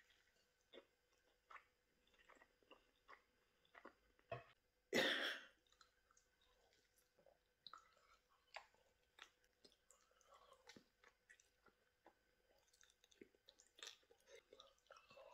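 Faint, wet chewing of a bacon cheeseburger in a soft bap, with scattered small mouth clicks. One louder, short noisy sound comes about five seconds in.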